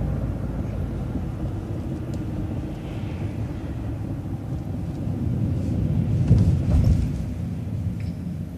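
Steady low rumble of a transit coach's engine and road noise heard from inside the bus while it is under way, swelling louder for about a second around six seconds in.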